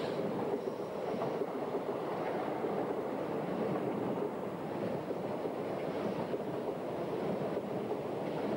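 ICE 1 high-speed train passing close below, its passenger cars rolling by with a steady noise of wheels on rail that does not rise or fall.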